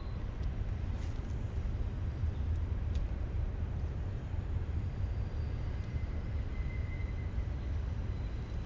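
Steady low rumbling noise with a fainter hiss above it, typical of wind buffeting an outdoor microphone, with a couple of faint clicks about a second and three seconds in.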